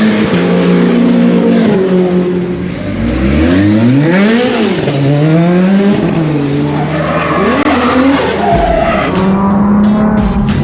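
Performance car engine revving hard on track, its note repeatedly climbing and dropping, with one large rise and fall about four seconds in.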